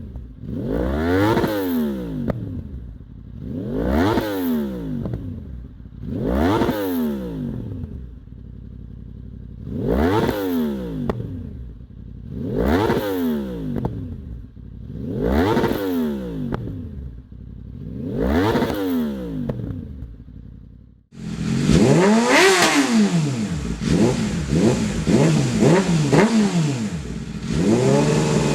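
Yamaha sport bike's inline-four engine revved hard and let fall back seven times, one blip about every three seconds. It then cuts to a second, louder bike revving in quicker, overlapping blips with a crackle through the exhaust.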